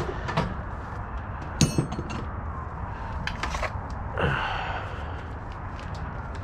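A few sharp metal clinks and knocks from hand tools and car parts, with a scrape a little after four seconds in, over a steady low background hum.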